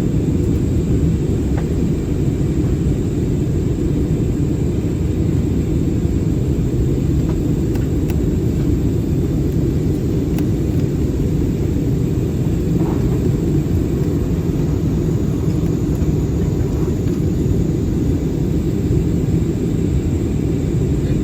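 Steady cabin noise inside an Airbus A320-216 in flight: a deep, even rumble of airflow and its CFM56 engines, with no change in level.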